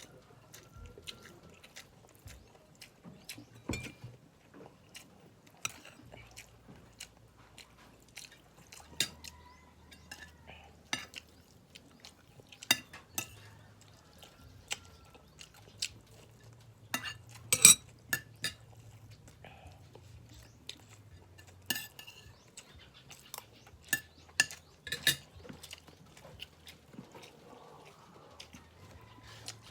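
Cutlery clinking and scraping against a plate in scattered sharp clicks, with some chewing; the loudest clink comes about 18 seconds in.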